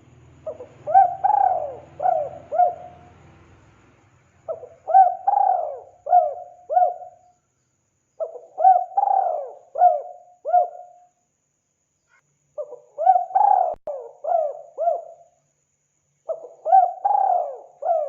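Spotted dove (tekukur) singing: five repeated cooing phrases of four or five notes each, one phrase about every four seconds.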